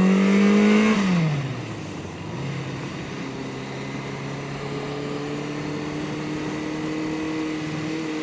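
Yamaha 750 Seca four-cylinder motorcycle engine under way: its note climbs a little, drops sharply about a second in as the revs fall, then holds a steady lower pitch.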